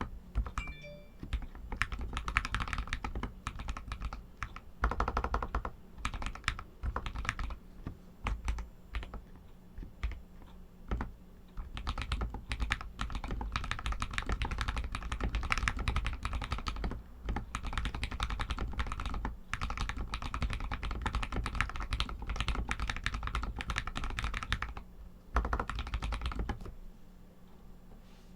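Typing on an RK61 mechanical keyboard with Outemu Red linear switches: a fast, continuous run of keystrokes broken by a few short pauses, stopping shortly before the end.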